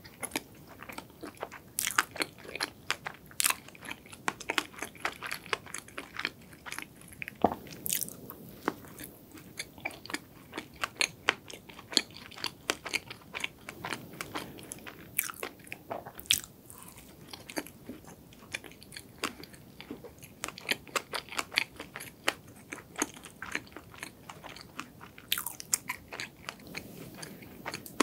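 Close-miked eating of a glazed donut: bites and chewing, with many sharp crackling mouth clicks throughout.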